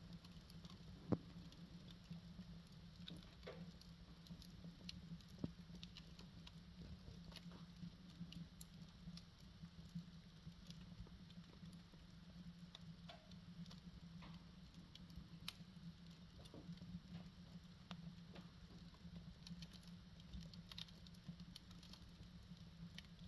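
Firewood burning in a wood stove, crackling faintly with small irregular snaps and pops, a slightly sharper one about a second in, over a steady low hum.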